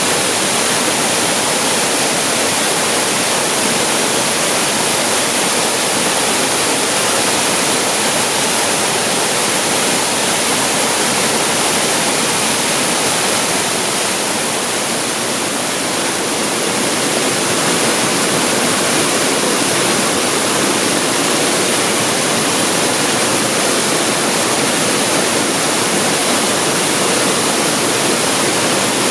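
Waterfall pouring out of a cave, a steady, dense rush of falling water with a slight lull about halfway through.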